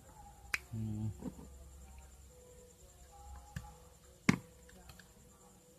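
Sparse handling noises from work on an opened electric clothes iron: a few sharp clicks and light taps, the loudest about four seconds in.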